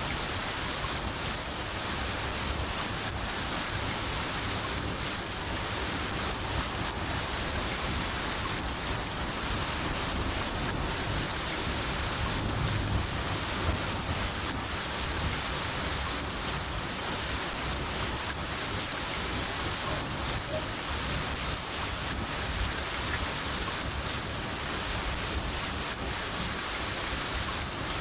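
A cricket chirping steadily, about three chirps a second, with two brief pauses. Under it is the steady hiss of rain and a low rumble of thunder.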